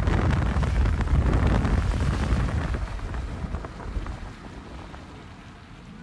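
Strong wind buffeting the microphone with a deep rumble, loud for the first few seconds and then easing off.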